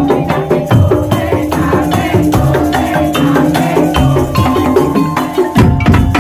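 Madurese tong-tong (ul-daul) ensemble playing: wooden slit drums and drums in a fast, steady rhythm under pitched melodic notes. Near the end the low drums drop out for a moment and come back in with a loud beat.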